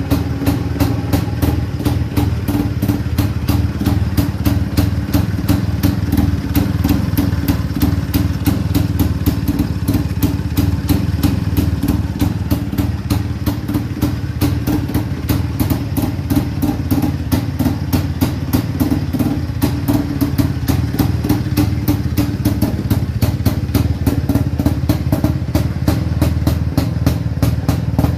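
Freshly restored IZh-49 motorcycle's 350 cc single-cylinder two-stroke engine idling steadily, with an even exhaust beat.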